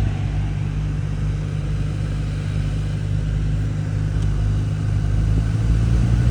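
BMW 523d's heater blower fan running at top speed with a steady low hum over the rush of air. This hum is the abnormal blower noise, heard only at high fan settings and almost gone at the middle setting.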